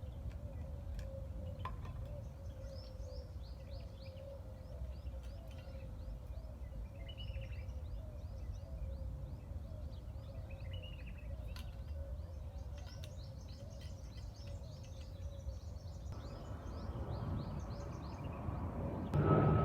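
Small birds chirping, many short quick chirps in a rapid series with a few lower warbling calls, over a steady low rumble of outdoor background noise.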